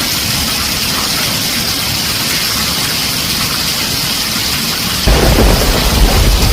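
Heavy rain drumming steadily on a tin roof. About five seconds in, a loud, deep rumble of thunder breaks in suddenly and keeps rolling.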